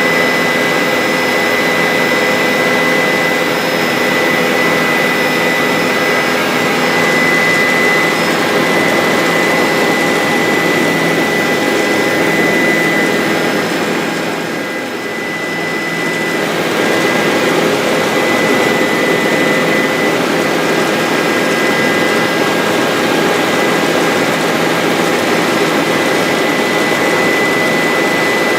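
Bell 407 helicopter in flight: its single turboshaft engine gives a steady high whine over the dense noise of the rotor, with a brief dip in loudness about halfway through.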